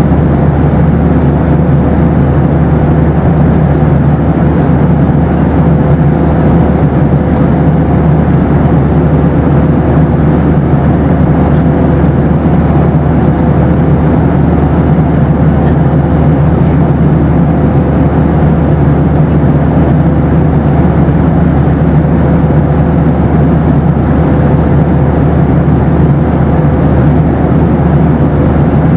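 Boeing 737 cabin noise in flight: a steady, loud low roar of engines and airflow, with a thin steady hum running through it.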